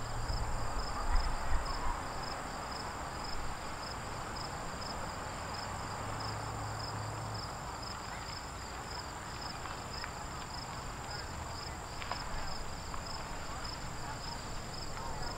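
CSX freight train rolling slowly past as it gets under way again after a stop: a low rumble with steady wheel noise, heaviest in the first couple of seconds. Insects chirp throughout in a steady pulsing rhythm over a constant high whine.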